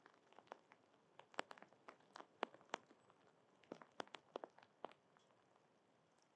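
An animal at a bird feeder cracking and chewing seeds close to the microphone: a run of sharp, irregular crunching clicks, several a second, with the loudest cracks about halfway through.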